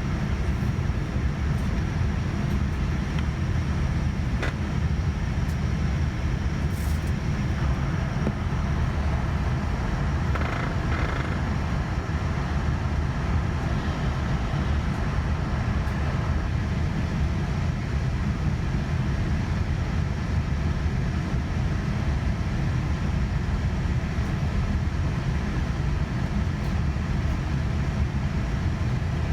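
Steady low rumble inside the cabin of a Boeing 787-9 Dreamliner on the ground before takeoff, with a few faint clicks.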